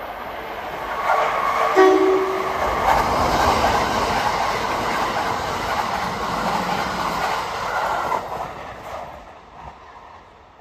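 Kintetsu 2610 series and 1253 series electric trains, coupled together, passing through a station at speed without stopping. A short horn blast sounds about two seconds in. The rumble and clatter of the wheels on the rails follow and fade away near the end.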